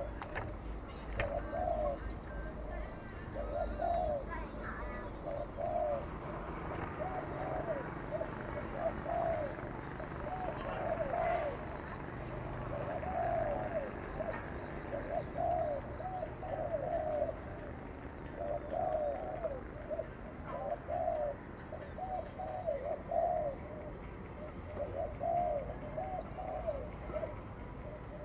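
Spotted dove cooing in the rapid 'thúc gù' style: short arched coos, often two or three close together, repeating every second or so.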